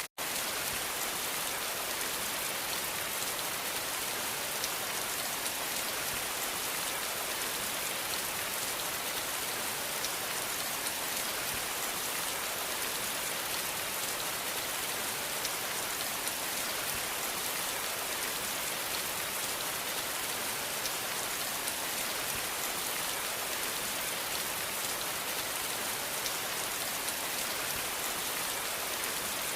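Steady rain: an even hiss of falling rain, strongest in the high end, with scattered drop ticks. A split-second break of silence at the very start.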